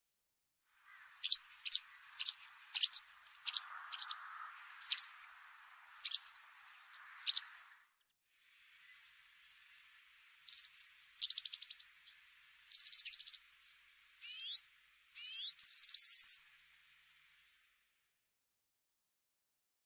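Small bird calling: a string of about ten short, sharp, high chirps half a second or so apart, then after a brief pause a busier run of chirps, buzzy trills and quick rising notes.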